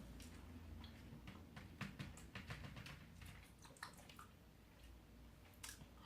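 Faint eating sounds: scattered soft clicks and squishy mouth noises of someone chewing pizza, irregular and quiet.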